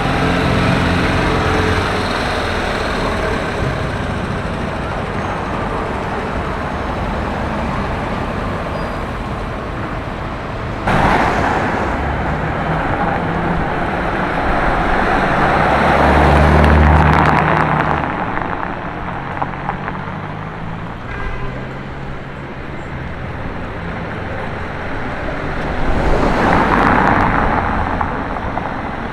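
Street traffic: a steady hum of passing vehicles. One car goes by close about 16 to 17 seconds in, with a deep engine note, and another passes near the end.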